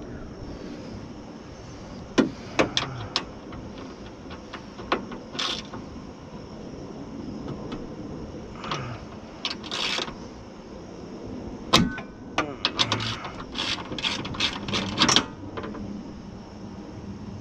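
Irregular metallic clicks and clanks of hand tools and window regulator parts being worked inside a car door, with one loud knock about two-thirds of the way in and a quick run of clicks just after it.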